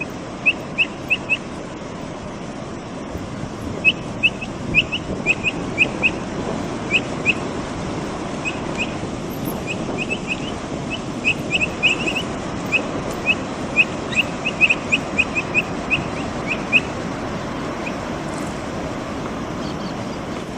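Capybara piping: short high peeps, often in quick runs of three or four, repeated many times and stopping a few seconds before the end. A steady rushing background noise runs underneath.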